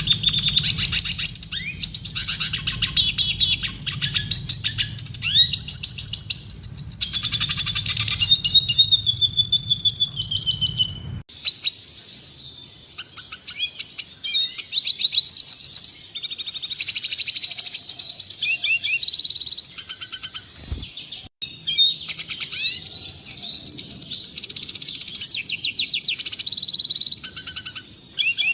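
Red siskin singing: a fast, high-pitched, continuous twittering song with trills and buzzy runs. About 11 s in, the recording cuts to a different clip, and there is a short break just past 21 s.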